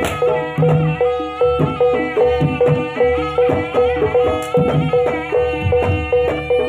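Javanese jaranan/barongan music: a reedy wind melody over hand drums and a pitched percussion note repeating about twice a second, in a steady brisk beat.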